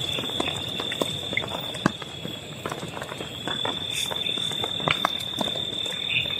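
Large raindrops tapping irregularly on a tent's fabric, each drop a sharp tap, over a steady high-pitched tone.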